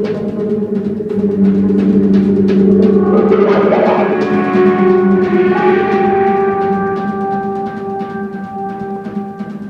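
Live instrumental jazz-rock band playing: drums and cymbals under long held keyboard chords, swelling in the middle and growing quieter near the end.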